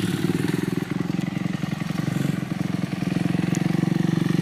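Dirt bike engine running steadily at low revs, getting a little louder near the end.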